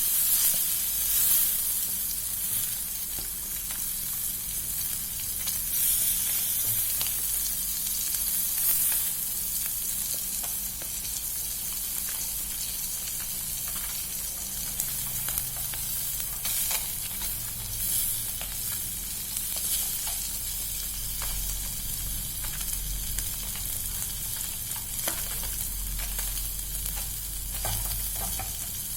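Food frying in hot oil: a steady sizzle with a constant fine crackle and a few brief clicks scattered through.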